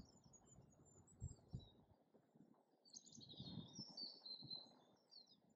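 Faint outdoor birdsong with scattered high chirps, and a fuller phrase of song from about three to four and a half seconds in. A few soft, low thumps, the loudest about a second in, sit underneath.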